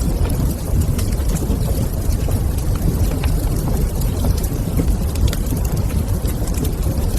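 Log fire in a fireplace crackling: scattered sharp pops and snaps over a steady low rumble.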